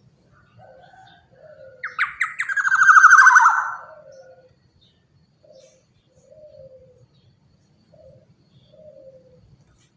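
Black-naped oriole giving one loud, harsh, rasping call about two seconds in. The call lasts about two seconds and falls in pitch at the end, over soft, short, low falling notes repeated about once a second.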